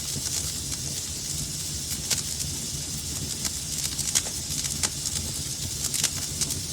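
Wood fire crackling in a fireplace: irregular sharp pops and snaps over a steady hiss and low rumble of the burning fire.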